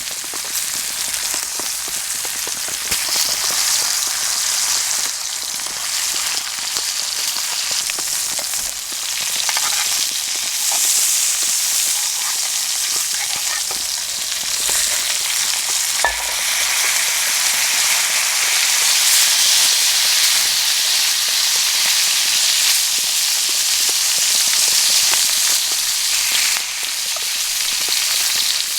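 Steak sizzling in a pan over a campfire: a steady frying hiss with small scattered crackles and one sharper pop about halfway through.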